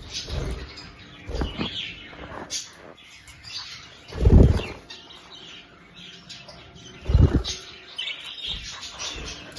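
Budgerigars chirping continually in short, high twitters. Two louder low thumps break in, about four and seven seconds in.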